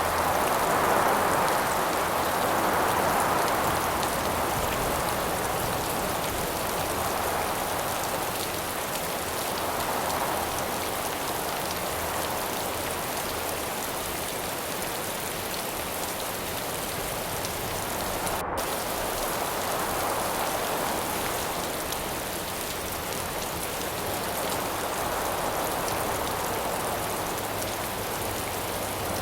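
Steady rain falling, with wind rising and falling in slow swells every several seconds.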